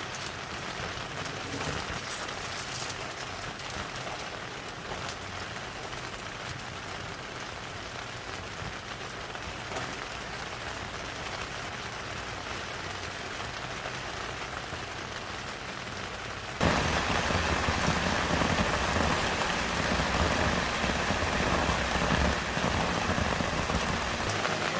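Heavy monsoon rain falling steadily, a dense hiss of drops on surfaces. About two-thirds of the way in it suddenly becomes louder and fuller.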